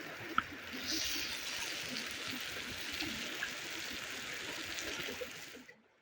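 Steady rush of running water, like a stream, cutting off abruptly near the end.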